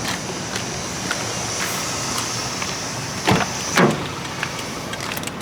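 Car door being unlatched and opened: two clunks about half a second apart, over steady background noise.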